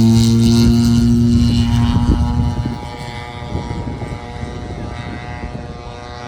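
Gas-powered RC airplane's small two-stroke engine, the same kind of motor as a string trimmer's, running steadily in flight. About three seconds in it drops sharply in loudness and goes on running more faintly.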